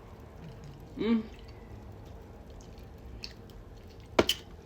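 Close-miked chewing and lip smacking with small wet mouth clicks, a brief voiced sound about a second in, and one sharp, loud click near the end.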